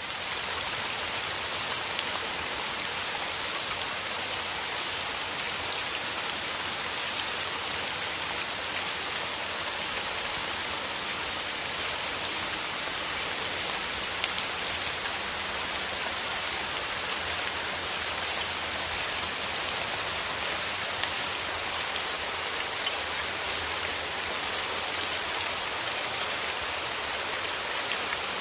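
Steady rain falling: an even, dense hiss of drops on surfaces, brightest in the upper range, with sharper single drops ticking now and then.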